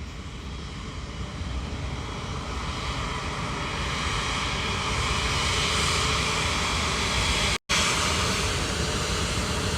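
Jet engine roar of a passing Airbus A350 airliner, growing louder over the first few seconds and then holding steady. The sound cuts out completely for an instant near the end.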